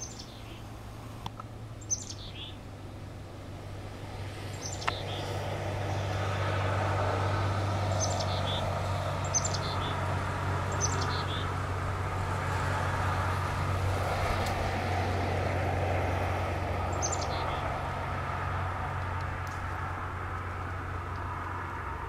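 Several short, high bird calls, each a quick falling note, spaced a few seconds apart over a steady low rumble and hum.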